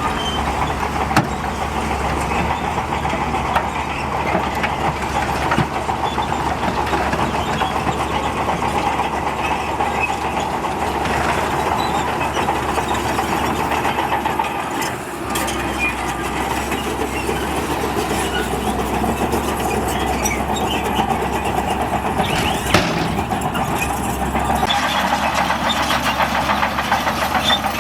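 Heavy diesel earthmoving machinery running steadily under load, with a few sharp metallic knocks, one about a second in and another near the end.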